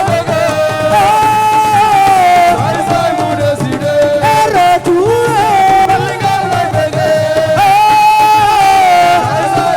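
Live assiko band music: a lead melody of long held notes that fall step by step in repeated phrases, over a steady drum beat.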